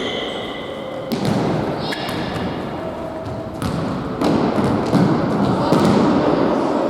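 Futsal ball being kicked and bouncing on an indoor court: several sharp thuds in a reverberant hall, over a background of players' voices.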